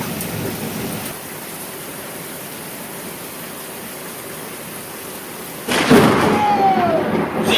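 Steady rain during a thunderstorm, then a sudden loud crack of close thunder near the end, which keeps rumbling on.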